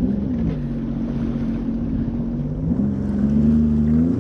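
Sea-Doo jet ski engine running, its note dipping and rising a few times as the throttle changes, with wind rushing over the microphone.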